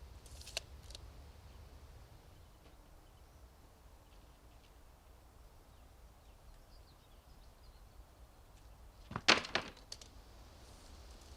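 Quiet background with a few faint clicks early, then a short burst of sharp cracks and knocks about nine seconds in.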